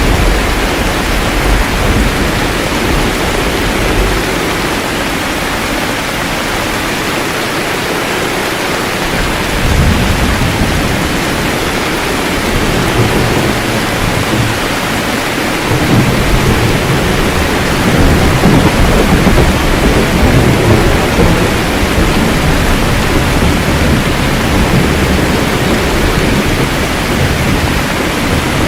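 Steady rain hiss with thunder rumbling low several times, the loudest rumble about two thirds of the way in.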